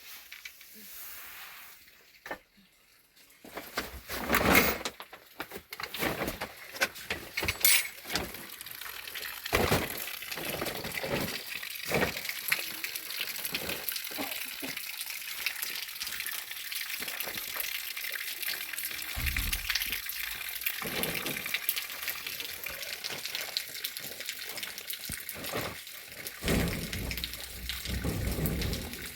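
Water running and splashing steadily, with a few sharp knocks and clatter of handling in the first seconds.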